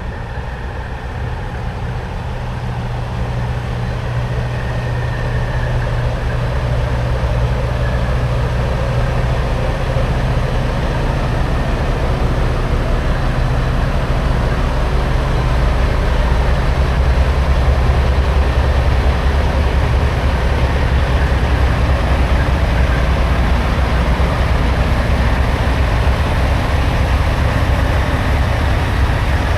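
Semi-truck diesel engine droning steadily while on the move. The drone grows louder through the first half and settles lower in pitch around the middle.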